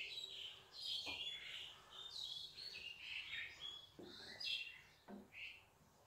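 Faint, repeated bird chirping in the background, with a few soft knocks of a wooden spatula stirring in a pan.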